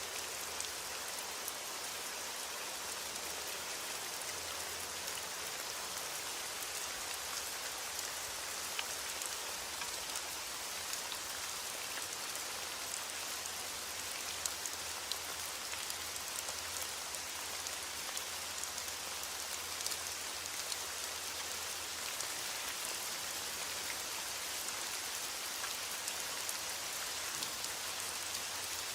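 Steady rainfall, an even hiss with the patter of individual drops landing on a surface.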